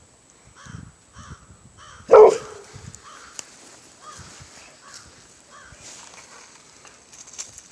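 A dog barks once, loudly, about two seconds in, with quieter footsteps before and after.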